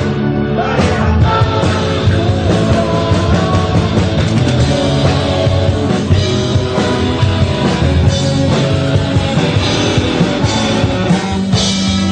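Rock band playing a song: loud, steady full-band music.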